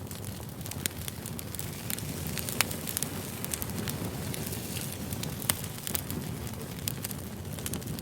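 Firewood burning: a steady low rush of flame with frequent small crackles, and sharper pops about a second, two and a half seconds and five and a half seconds in.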